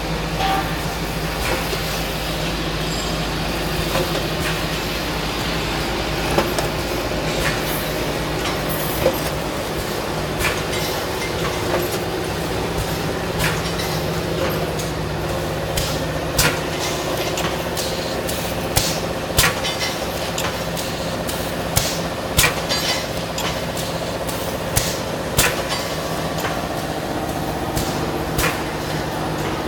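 Pneumatic automatic steel wire-mesh welding machine running: a steady hum with sharp clicks and knocks at uneven intervals, coming more often in the second half.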